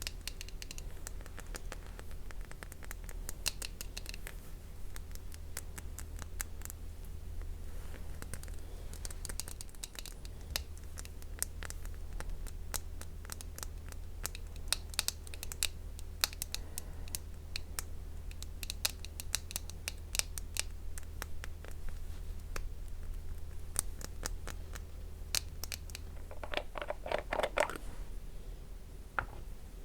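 Close-miked ASMR handling of an eye-care cosmetic product being applied to a mannequin's face: many crisp clicks, taps and scratchy strokes in irregular clusters, over a low steady hum. Near the end comes a brief squeaky, pitched rub.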